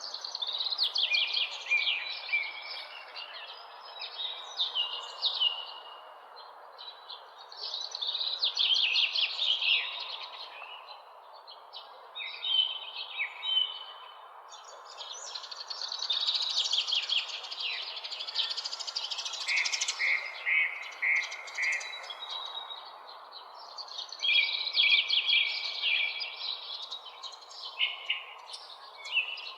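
Songbirds chirping and singing in repeated phrases of a few seconds each, one after another with short gaps, over a steady background hiss.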